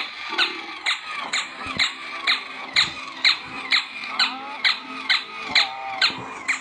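A battery-powered toy's mechanism clicking about twice a second in a steady rhythm, with high squeaky tones between the clicks.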